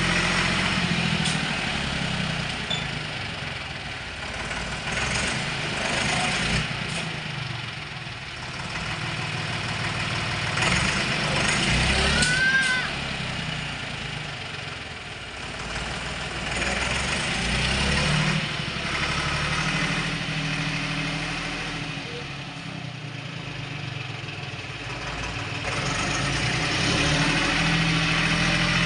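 Torpedo DT4806 tractor's diesel engine running, its sound swelling and easing every few seconds.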